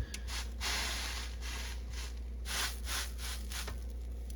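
Garlic-buttered buns being pressed and shifted on a hot griddle: several short scraping, rubbing sounds, with a sharp click at the start.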